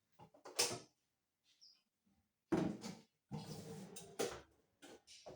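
A few knocks and clatters of household objects being handled, with a loud knock about two and a half seconds in followed by a second or so of rattling and another knock.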